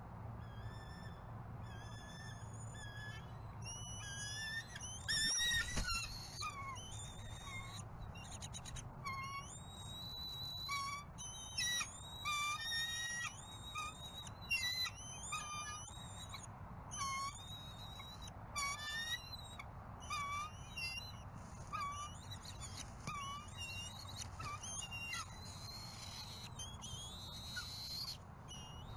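Birds calling: high, wavering, whistled chittering calls in quick runs, over a regular series of short chirps about once a second. A brief low rumble comes about five seconds in.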